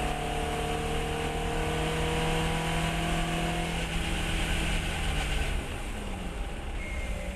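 Fiat 132 race car's engine pulling hard on track, its pitch climbing slowly as the revs build. About five and a half seconds in the level drops sharply as the throttle is lifted.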